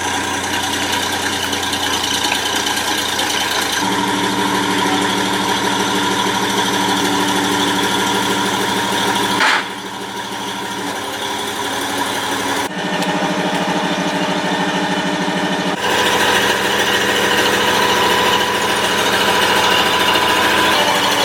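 Engine of a classic army vehicle running at a steady idle with a rough, rattling note, its tone shifting abruptly a few times.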